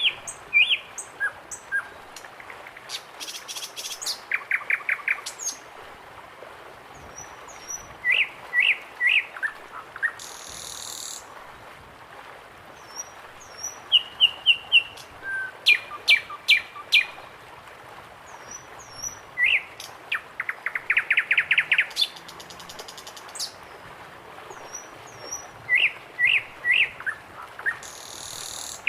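Several birds calling in turn: short repeated chirps, quick trills and thin high notes, over a faint steady background hiss.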